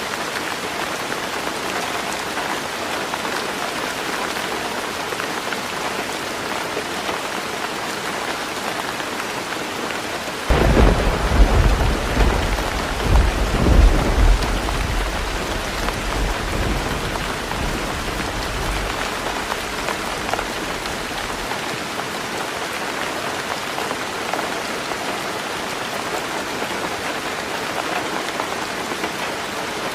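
Heavy rain drumming steadily on a tin roof. About a third of the way in, a thunderclap breaks into a deep rolling rumble that peaks twice within a few seconds and dies away over the next several seconds.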